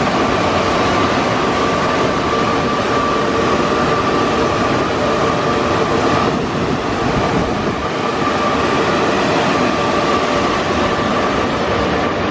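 Automatic car wash machinery running: a loud, steady rush with a steady whine.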